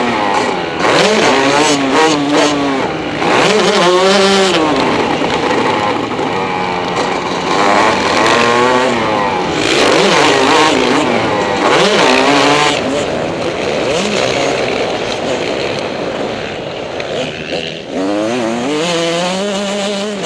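Motocross dirt bike engine revving hard and backing off over and over, its pitch climbing and dropping repeatedly as the throttle is worked.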